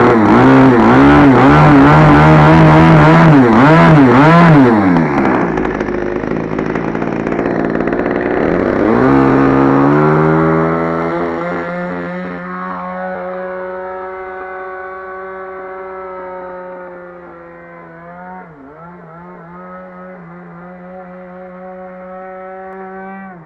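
RCGF 20cc single-cylinder two-stroke petrol engine of an RC model airplane in flight, its pitch swinging up and down quickly for the first few seconds, then holding steady as it grows steadily fainter, with one short dip in pitch near the end.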